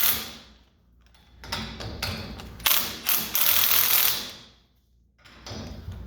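Bolts of a mechanical tee being tightened onto a steel sprinkler pipe: a sharp metal sound at the start, then about three seconds of ratcheting clicks, ending about two-thirds of the way through.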